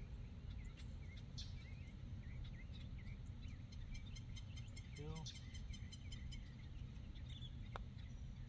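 Birds chirping and twittering over a steady low rumble, with a rapid high ticking trill for a couple of seconds midway and a single sharp click near the end.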